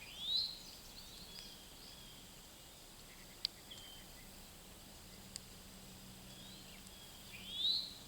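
Two rising bird calls, one at the start and one near the end, each a quick upward slur and the loudest sounds present. Under them runs a steady high insect drone, and there are a couple of sharp clicks.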